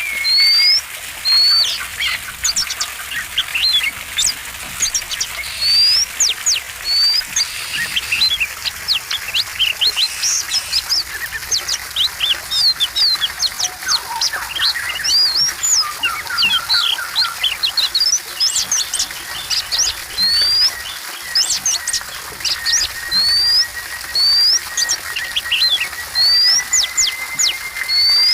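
Oriental magpie-robin (kacer) singing a varied song: repeated short rising whistled notes mixed with rapid, sharp chattering notes. A thin steady high tone sounds underneath from about two-thirds of the way in.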